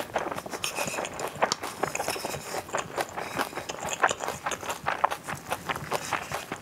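Close-miked chewing of a mouthful of bibimbap with fresh leafy greens: a steady run of many small, sharp, wet clicks and crunches, several a second.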